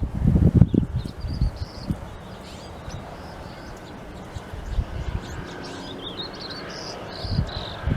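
Small birds chirping in short high notes, busiest in the second half. A few loud low thumps and rustling in the first second and a half.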